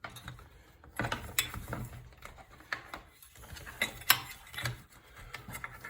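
Clicks, knocks and rattles of small parts and tools being handled during a headlight assembly job, with a couple of sharper clicks about a second and a half in and again about four seconds in.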